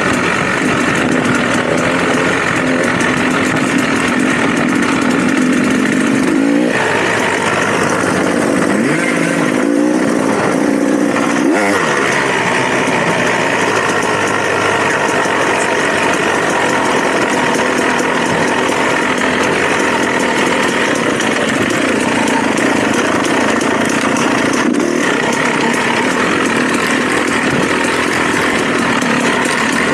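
Dirt bike engine running on a trail ride, its revs rising and falling with the throttle.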